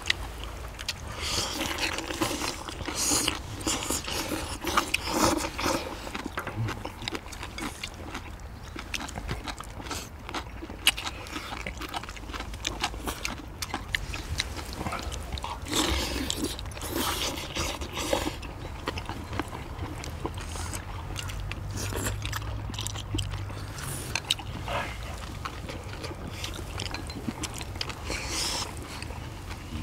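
People eating braised monkfish and bean sprouts: chewing and mouth sounds in irregular short bursts, with chopsticks tapping on bowls and the steel tray.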